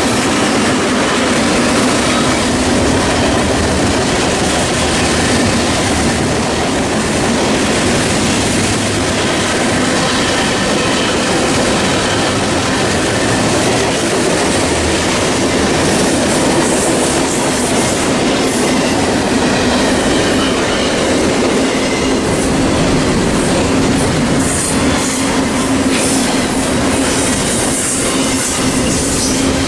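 Freight train cars rolling past at close range, steady wheel clatter on the rails, with wheels squealing faintly in the second half.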